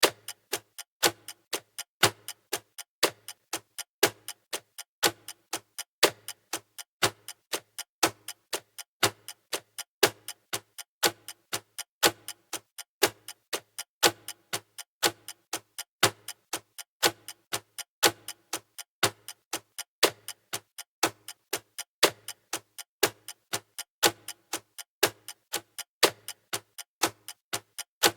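Clock ticking sound effect on a countdown timer: sharp, even ticks about two a second, with no other sound.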